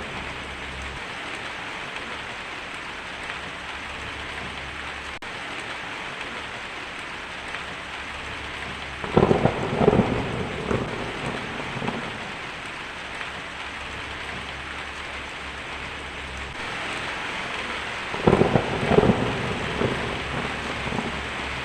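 Steady heavy rain hissing, with two loud crackling thunder peals, one about halfway through and one near the end.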